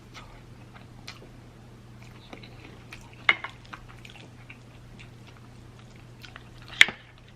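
Close-up mouth sounds of eating: chewing and lip smacks with scattered small wet clicks, and a sharper click near the end.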